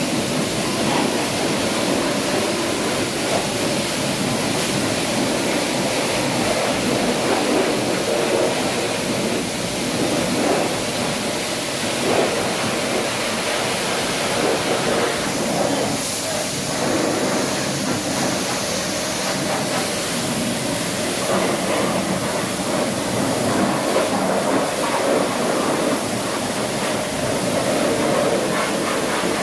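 Car wash water spray: a steady rushing hiss of water that runs on without a break.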